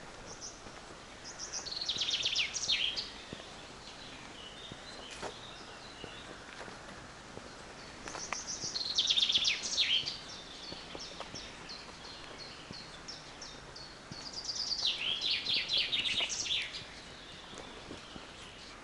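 A songbird singing three song phrases about six seconds apart, each a couple of seconds long: a quick run of high notes that drops in pitch toward the end.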